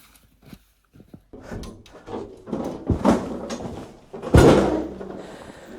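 Objects being handled and moved: a few small clicks, then rustling and clatter with two loud knocks, the louder one about four and a half seconds in.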